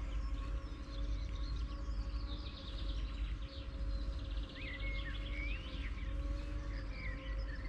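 Birds singing, with short rising and falling chirps and a fast trill, over a low rumble of wind on the microphone and a faint steady hum.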